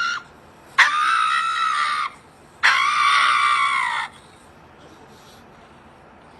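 A high-pitched scream: the end of one call just at the start, then two long, steady screams of a second or more each, followed by quiet.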